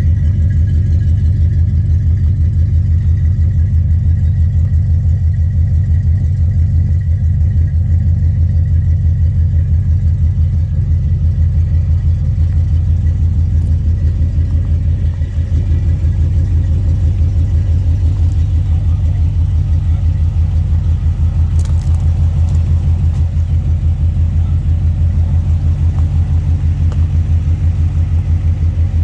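1971 Chevrolet C10 pickup's engine idling steadily on a cold start, with a loud, even firing rhythm.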